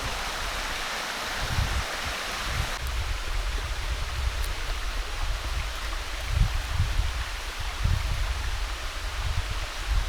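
Steady rushing water noise, a little softer about three seconds in, with irregular low rumbling puffs underneath.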